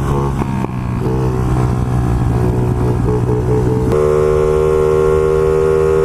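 A 50cc pit bike engine running steadily under way, its note shifting about four seconds in.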